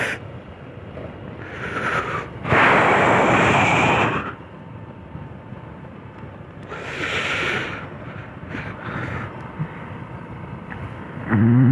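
Motorcycle riding heard from a helmet-mounted camera: a steady low engine and road rumble, with loud bursts of wind noise on the microphone from about two and a half to four seconds in and again about seven seconds in.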